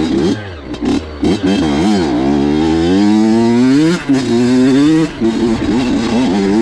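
Honda CR85 two-stroke dirt bike engine revving on the trail. Its pitch wavers for the first couple of seconds, climbs steadily for about two seconds, drops sharply about four seconds in, then runs on at a lower, varying pitch.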